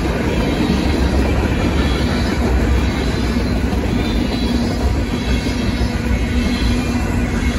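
Freight train of tank cars rolling steadily through a grade crossing, steel wheels rumbling and clacking over the rails.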